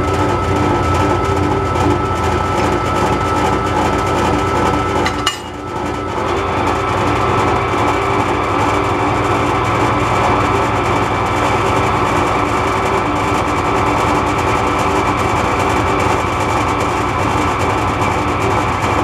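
Metal lathe running steadily under a cut, taking about 25 thousandths off a tool holder to set its height, with a constant motor hum and whine. About five seconds in the sound drops out abruptly for a moment, then picks up again.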